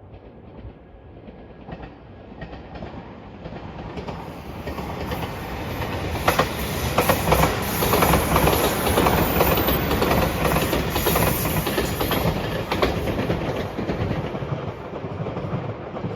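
A JR limited express train approaching and passing at speed, its wheels clattering over the rail joints in quick clicks, loudest about halfway through and fading toward the end.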